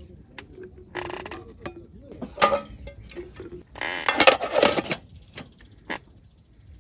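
Clinks, knocks and scraping from camp cooking gear being handled. There are short bursts about a second in and again around two and a half seconds, a longer scraping stretch around four to five seconds, and a few sharp ticks after it.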